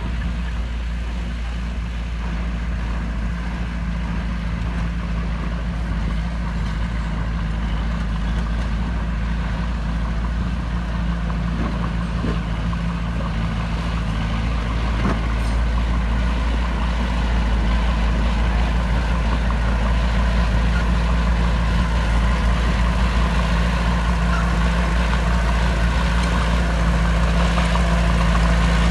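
Heavy diesel earthmoving machine engine running steadily under work, a deep continuous drone that grows slightly louder in the second half.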